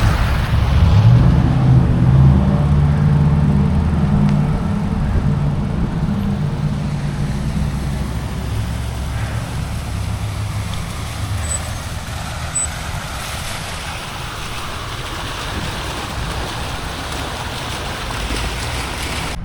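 Wind rushing over the microphone while cycling. A motor vehicle's engine rumbles loudly through the first half and then fades away.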